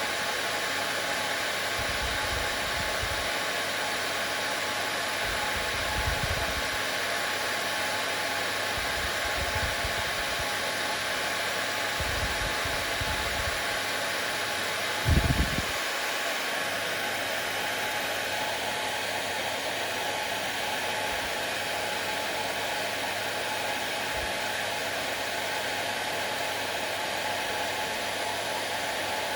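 Hair dryer running steadily, a constant rush of air over the motor's hum. A few soft low bumps come through, with one louder thump about halfway.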